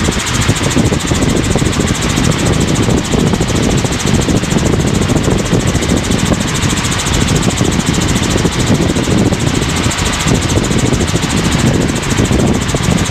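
Helicopter in cruise flight heard from inside the cabin: steady, loud rotor and engine noise.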